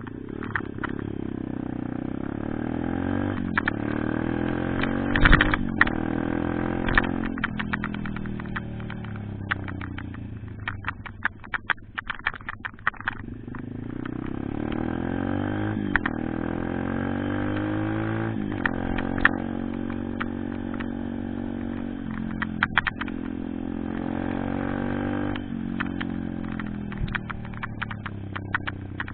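Pit bike engine running under way, its pitch climbing and dropping again and again as the revs rise and fall. Frequent sharp clicks and knocks run over it.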